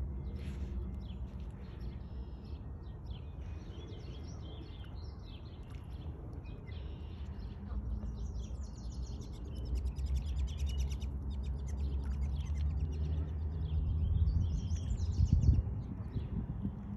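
Small birds chirping and trilling in the background, with rapid runs of notes about halfway through and again near the end, over a steady low rumble.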